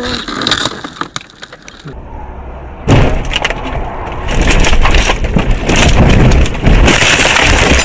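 Car crash: a sudden loud impact about three seconds in, followed by loud noisy crashing with breaking glass.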